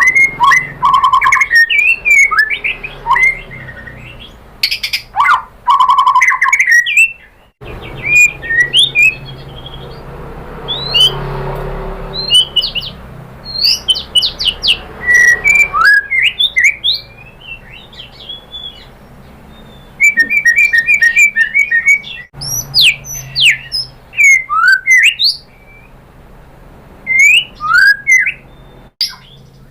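White-rumped shama singing a rapid, varied song of clear whistles, sliding notes and sharp chirps. The song comes in separate stretches that change abruptly several times.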